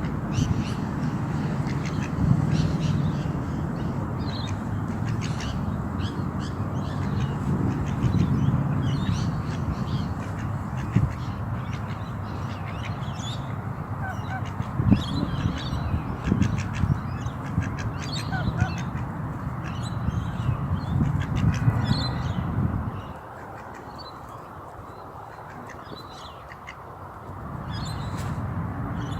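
Ducks quacking, over a steady low rumble that drops away suddenly about three quarters of the way through and then returns.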